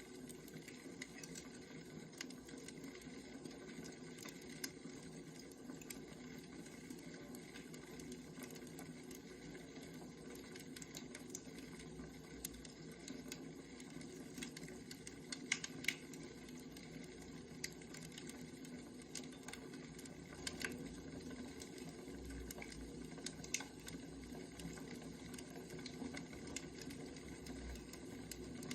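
Wood fire crackling: scattered sharp pops and clicks over a steady low noise.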